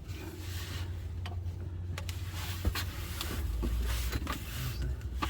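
Mechanical working noise as the transmission is raised and moved into place on its support under the car: irregular short knocks and scraping over a steady low hum, the hum dropping lower about three and a half seconds in.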